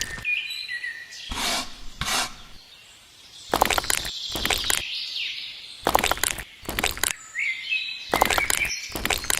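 A dozen or so short, irregular scraping strokes, like a tool or material rubbed across a rough surface, with birds chirping between them.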